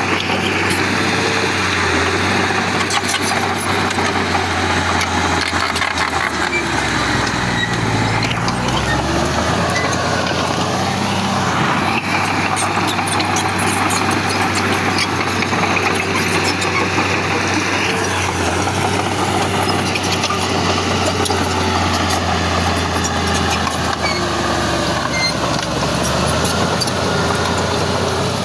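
Heavy diesel earth-moving machinery running continuously: a steady low engine tone, with higher whining sounds that rise and fall at times.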